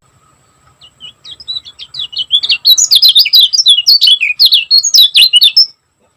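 Lemon-bellied white-eye (kecial kuning) singing a fast, tightly packed run of high chirping notes. The song starts faintly, builds over the first two seconds, and stops abruptly near the end.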